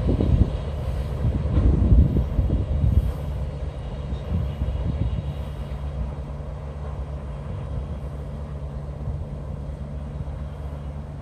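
Freight train's autorack cars rumbling on the rails as they roll away, the rumble fading over the first few seconds. A steady low hum carries on underneath.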